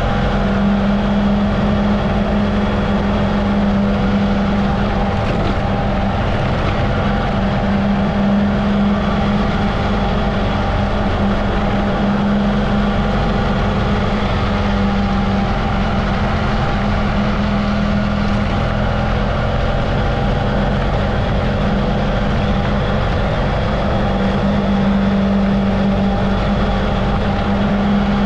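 Adventure motorcycle engine running at a steady, even pitch while riding on a dirt road.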